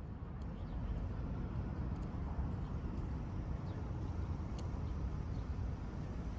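Steady low rumble of vehicle noise, with a few faint high ticks.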